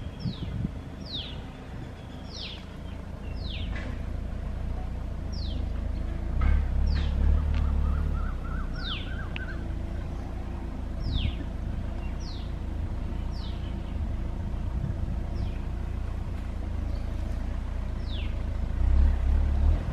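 A bird calling over and over, each call a quick downward-sliding chirp, about one a second, over a steady low rumble.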